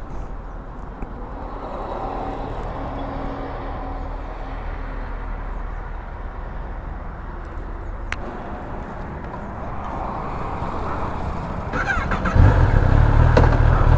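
Kawasaki ZX-10R's inline-four engine running steadily at low revs, then getting much louder about twelve seconds in as it revs up.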